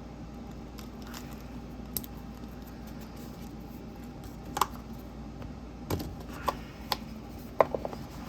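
Small hard objects being handled on a desk: a few irregular sharp clicks and taps, sparse at first and bunching together near the end, over a steady low room hum.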